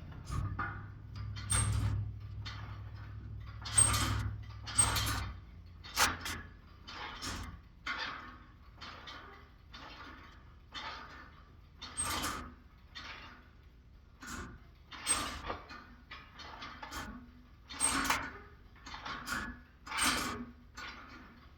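Foot-operated kick shrinker working a steel sheet-metal panel: a run of sharp mechanical clunks, roughly one a second, some with a short metallic ring, as the jaws clamp and shrink the edge of the panel stroke after stroke.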